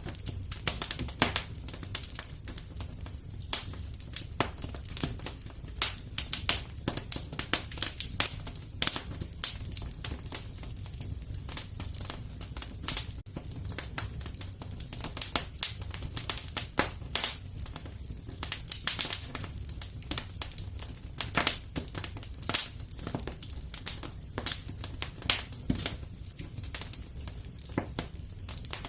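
Wood fire in a fireplace crackling, with frequent sharp pops at irregular intervals over a steady low rumble.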